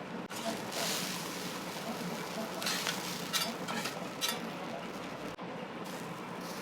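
Food sizzling on an iron teppan griddle, with several sharp clicks and scrapes of metal spatulas on the plate between about two and a half and four and a half seconds in.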